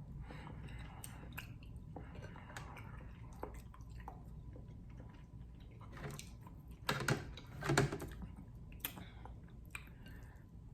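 A person eating king crab meat close to the microphone: soft chewing and wet mouth noises with small clicks, and two louder smacks about seven and eight seconds in.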